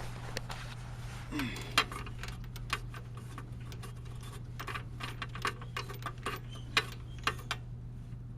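Socket ratchet clicking in irregular runs as it backs out a long-threaded spark plug from a mower engine, over a steady low hum.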